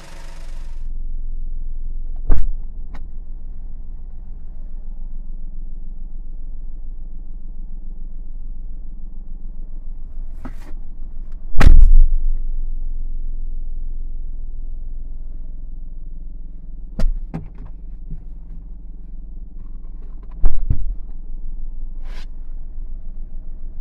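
Suzuki Spacia Gear's engine idling steadily, with several sharp knocks and thumps over it, the loudest about halfway through.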